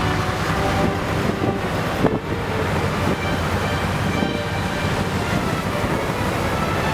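Baltic Sea surf washing on the shore: a steady, loud rumble of breaking waves.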